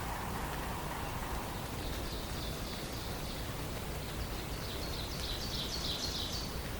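A songbird singing a high, rapid trill in the second half, over steady forest background hiss.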